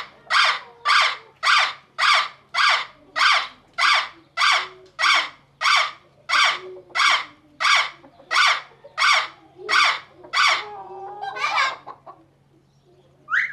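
A bird giving a loud, harsh call over and over, about two notes a second, then a couple of less regular calls before it stops near the end.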